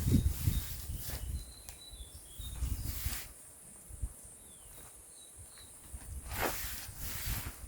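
Outdoor camp handling noises: rustling and low thumps at first, then two sharp knocks near the end, over a steady high insect hiss with a few short, faint chirps.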